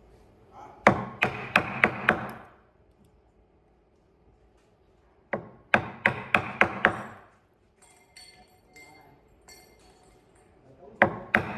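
A hand tool striking wood in three bursts of quick blows, five or six to a burst at about three a second.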